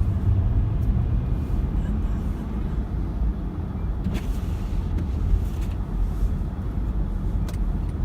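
Car driving, a steady low rumble of engine and road noise, with a few faint clicks.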